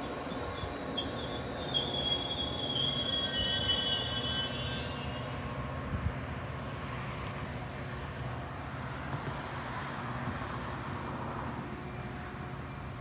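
Metra push-pull commuter train at a station platform: a high-pitched metallic squeal from its wheels and brakes for the first few seconds, fading out. Then the steady low rumble of the train standing.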